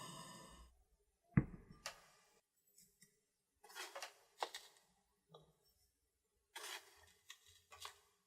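Kitchen prep handling sounds: a steady machine-like hum cuts off within the first second, then a sharp knock and several short scrapes and clatters of utensils and containers.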